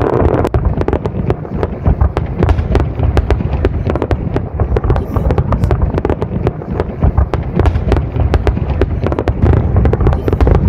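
Fireworks display: aerial shells and crackling effects going off in quick succession, a dense run of sharp bangs and crackles, several a second, over a low rumble of booms.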